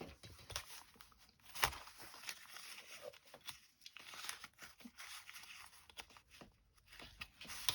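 Paper rustling and crinkling as scraps of paper are handled close up, with scattered soft clicks and one sharper click about a second and a half in.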